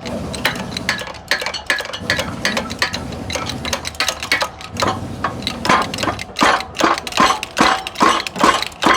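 Hand tools working on metal car suspension parts, making repeated sharp metallic clinks and taps several times a second. The taps grow louder in the second half.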